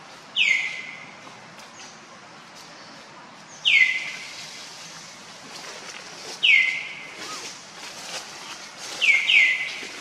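A bird calling: a loud, clear note that falls quickly in pitch. It repeats about every three seconds, with two in quick succession near the end.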